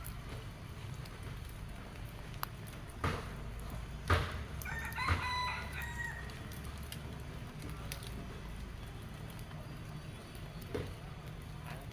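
A rooster crowing once, a single call of about a second and a half, over a steady low rumble. Two sharp knocks come just before the crow.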